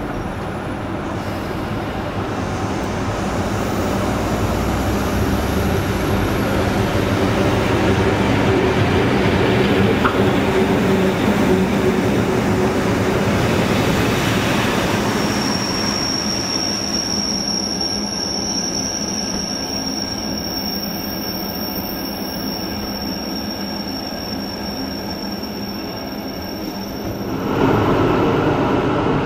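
A Rhaetian Railway train hauled by a Ge 6/6 II electric locomotive runs past on metre-gauge track, its rumble building as it comes close. About halfway through a steady high wheel squeal sets in and holds. Near the end it gives way to the steady running noise of the train heard from aboard.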